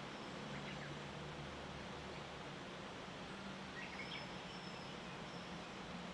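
Early-morning outdoor ambience: a steady faint hiss over a low hum, with a few faint, short bird chirps about half a second and four seconds in.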